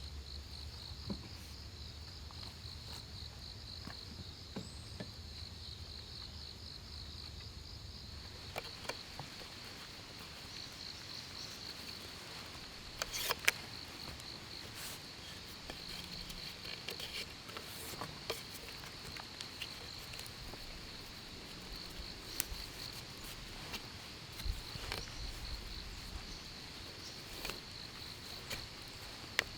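Insects chirring steadily in a high, fast-pulsing trill, with scattered sharp clicks and knocks, the loudest about 13 seconds in.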